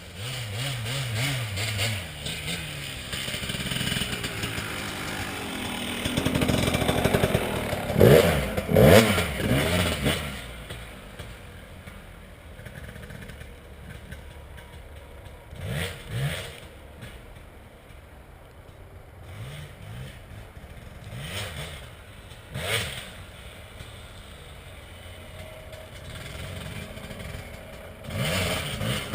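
Dirt bike engine revving and accelerating, loudest with two sharp revs about eight and nine seconds in, then running quieter with a few short bursts of throttle.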